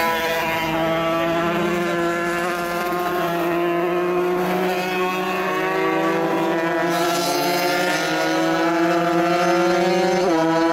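125cc motocross bike engines running hard. The main bike's pitch sags and then climbs steadily, with a sudden step in pitch about ten seconds in, like a gear change, over the lower steady tone of another engine.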